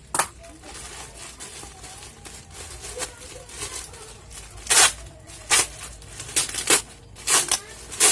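Plastic parcel packaging being torn and crinkled open by hand: faint rustling at first, then a run of short, loud rips and crackles from about five seconds in.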